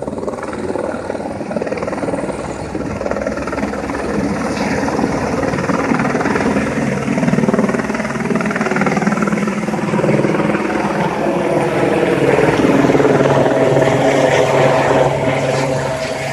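Air ambulance helicopter departing, its rotor blades and turbine running steadily, growing louder about two-thirds of the way through.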